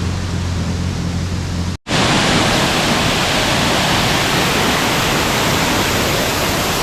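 A jet-ski engine hums low and steady under water noise until the sound drops out for a moment about two seconds in. After that comes the steady, even rushing of a waterfall.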